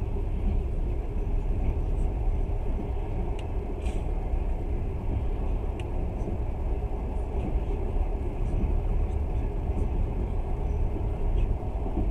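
Passenger train running along the track: a steady low rumble of wheels on rails, with a few faint sharp clicks and rattles.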